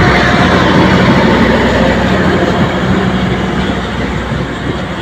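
A train running: loud steady rumble and rail noise with a low hum, easing off slightly toward the end.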